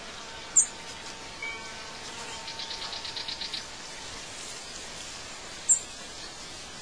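Birdsong ambience: two sharp, very high chirps about five seconds apart, with a short note and a quick trill of about ten pulses between them, over a steady background hiss.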